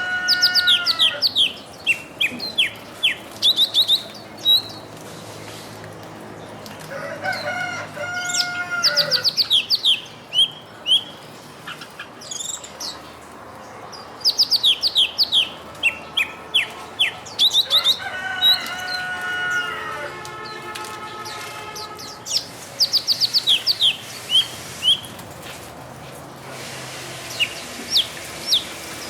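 Birds chirping in quick bursts of high, falling notes, repeated in phrases every few seconds. Three times a longer, lower call breaks in, each lasting about a second and a half.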